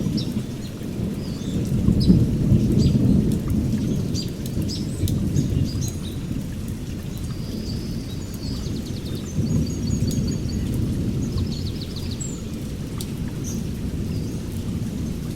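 Rain falling steadily with low rolling thunder that swells and fades a few times, while small birds give short, high chirps and a quick trill over it.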